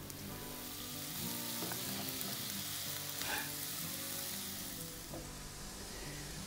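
Sliced button mushrooms sizzling as they fry in hot fat in a pan, with a wooden spatula stirring them through.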